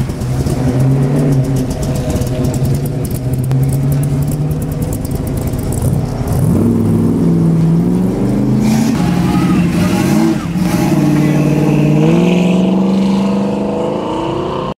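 Car engine running, then accelerating with its pitch rising in steps, like upshifts, about six seconds in and again near the end.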